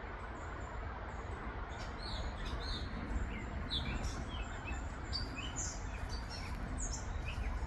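Several birds chirping and calling back and forth in quick short chirps, thickening from about two seconds in, over a steady low background rumble.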